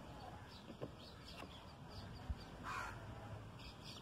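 Faint distant bird calls, one clearer call nearly three seconds in, with a soft low thump just before it.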